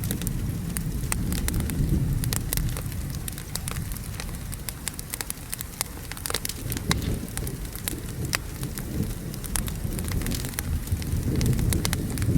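Wood fire crackling, with many sharp pops scattered irregularly, over steady falling rain. A low rumble of thunder swells about two seconds in and again near the end.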